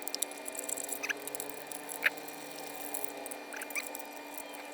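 Quiet handling of small laptop parts: a few faint, sharp clicks about one, two and nearly four seconds in, over a faint steady hum.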